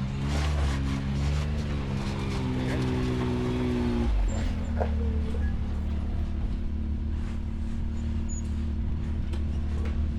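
Off-road vehicle engine working at shifting revs while rock crawling, rising and falling in pitch, then dropping to a steady idle about four seconds in.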